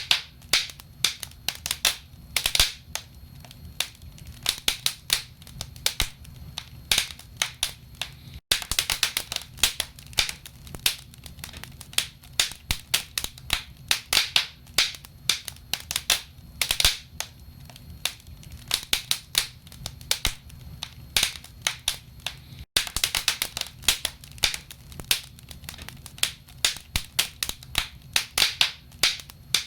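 Wood fire crackling in a fireplace: many sharp pops and snaps from the burning logs, some much louder than others, over a low steady rumble. The sound drops out for an instant twice, about a third of the way through and again about three quarters through.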